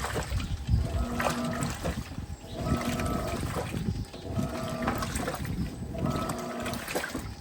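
Electrolux LTP15 top-loading washing machine in its wash agitation after the soak. The agitator motor hums through each stroke and the water and clothes swish as it reverses, in an even rhythm of about one stroke every second and a half to two seconds.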